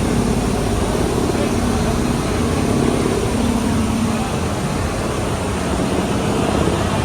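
Loud, steady engine rumble and rush of aircraft, with a hum that fades about four seconds in.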